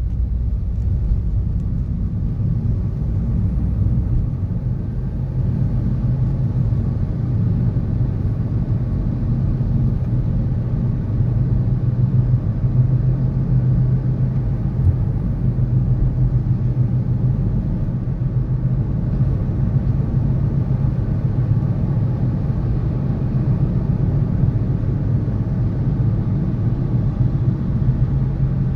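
City traffic: a steady low rumble of passing road vehicles, with no single event standing out.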